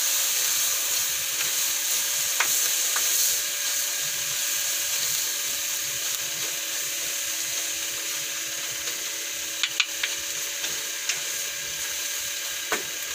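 Pork lung and heart in thin second-press coconut milk sizzling steadily in a wok while a wooden spatula stirs the pieces, with a few sharp clicks in the second half.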